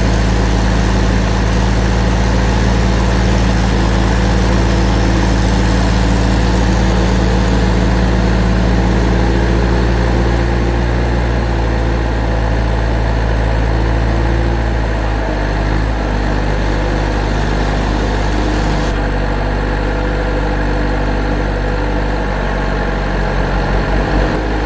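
Heavy vehicle engine idling steadily, its low hum shifting in pitch about fifteen seconds in.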